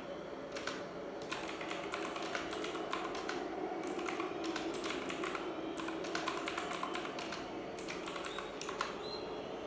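Irregular quick clicks, like keys being typed on a keyboard, over a steady background murmur.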